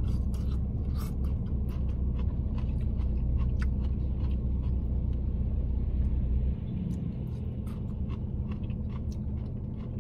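Steady low rumble of a car idling, heard from inside the cabin, with scattered small clicks and taps of eating from a plastic container. The deepest part of the rumble drops away about two-thirds of the way through.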